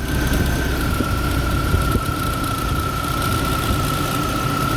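Old car's petrol engine running, with a steady high whine over it that drops slightly in pitch about half a second in. The owner wonders whether the whine comes from an alternator about to fail.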